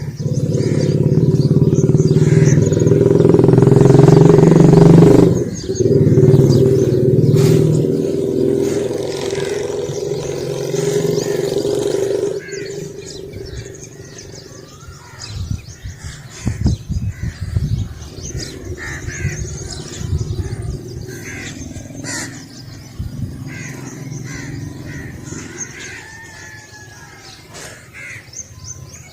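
A motor vehicle engine runs loud, building to a peak and then fading away over the first dozen seconds, as it passes by; after that, birds chirp and call.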